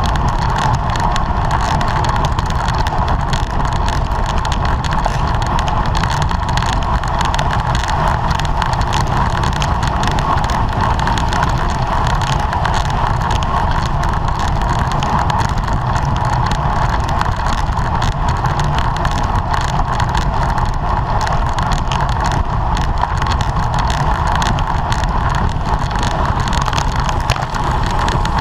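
Steady wind and road noise on a camera mounted on a bicycle ridden at race speed, with a constant band of rushing sound and a low rumble.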